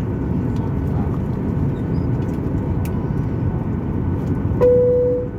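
Steady low rumble of a Boeing 737-900ER cabin on the ground after landing. Near the end, a single steady chime tone sounds for under a second.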